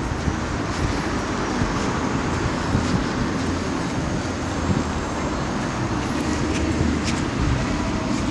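Steady city street noise: a continuous low rumble of passing traffic.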